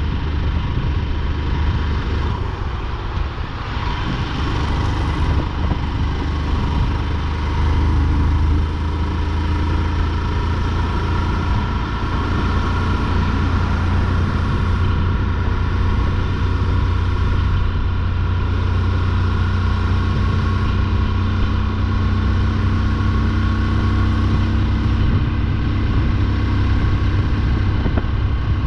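Motorcycle engine running steadily at cruising speed, with a continuous rush of wind and road noise.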